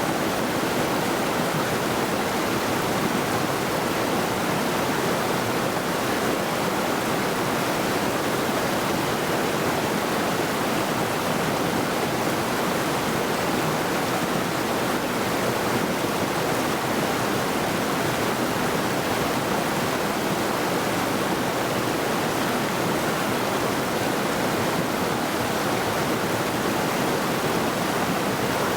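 Mountain river rushing over rocks: a steady, even flow of water.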